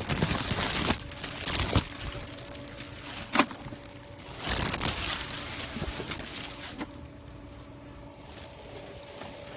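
Handling noises from unpacking a heavy robotic pool cleaner: rustling packaging and knocks in several bursts, with a sharp click about three seconds in, then quieter over a faint steady hum for the last few seconds.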